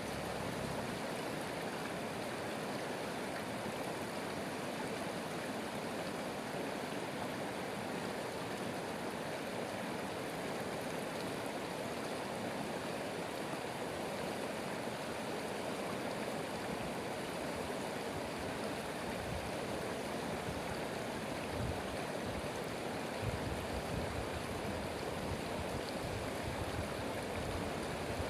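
Stream water rushing and burbling in a steady, even flow, with a few soft low bumps about three quarters of the way through.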